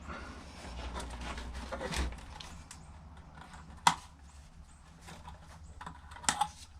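A few scattered light clicks and knocks of parts and tools being handled while a karaoke machine is taken apart, the sharpest just before halfway through, over a faint low steady hum.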